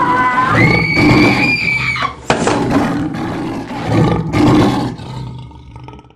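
A loud, high-pitched scream held for about a second and a half, followed by several rough roaring surges that fade out.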